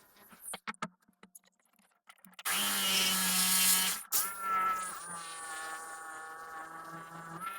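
Handheld electric power tool with a high buzzing motor: a few scattered clicks, then about two and a half seconds in it starts, loud with a rushing noise for about a second and a half, breaks off briefly and runs on steadily to the end.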